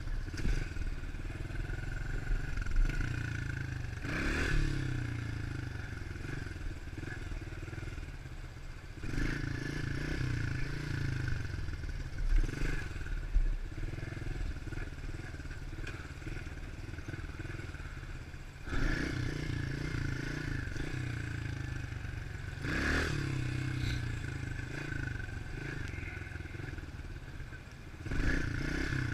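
A 110cc four-stroke pit bike engine running under way. It revs up and eases off again about half a dozen times.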